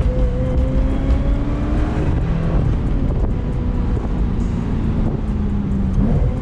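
Ferrari 355 F1's V8 running under light throttle while driving, its pitch climbing gently for about two seconds, then dropping and holding steady. Wind rush rides over the engine.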